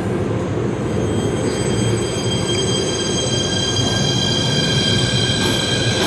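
PATH train running on the track with a steady rumble. About a second and a half in, several high steady tones join it and grow louder toward the end.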